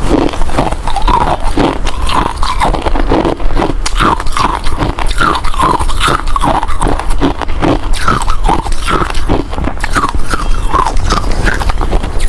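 Hard ice being bitten and chewed close up: a dense run of rapid crunches with short squeaky tones among them.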